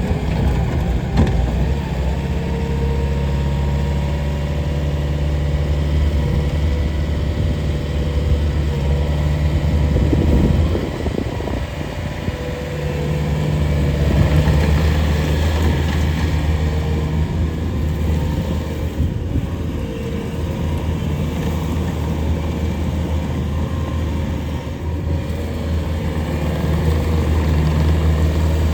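Bobcat T770 skid steer loader's diesel engine running steadily. It eases back about eleven seconds in and picks up again a few seconds later.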